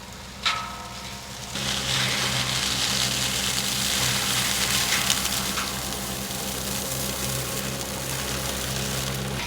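Fecon FTX128L mulching tractor working: one sharp clank about half a second in, then from about a second and a half in a loud, steady rushing hiss over the engine's low hum, as the mulching head works.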